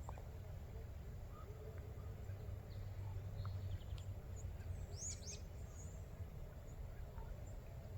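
Outdoor woodland ambience: a steady low rumble with small birds calling, a quick run of high chirps about five seconds in.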